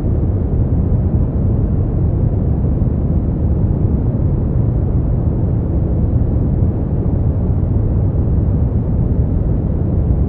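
Steady sleep-aid white-noise track: an unbroken, even hush that is deep and muffled, heavy in the bass with little high hiss.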